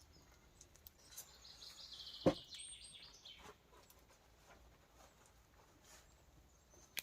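A songbird singing one trilled phrase that steps down in pitch, lasting about two seconds, from about a second in. A single sharp knock halfway through is the loudest sound, with a few faint ticks scattered around it.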